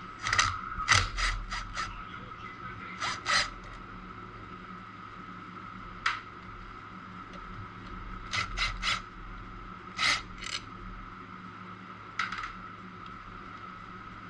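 Short metallic scrapes and clicks of a tool and the stator cover bolts being handled on a DRR 90 quad engine. They come in small clusters: about five in the first two seconds, then pairs and single ones through the rest.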